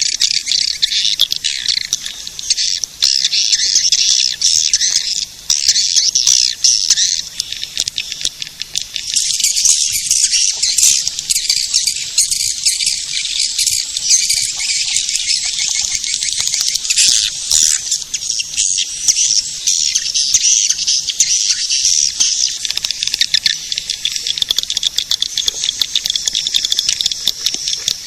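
Swiftlet lure call recording: a dense, continuous high-pitched chattering twitter of many swiftlets, with rapid clicking trills running through it.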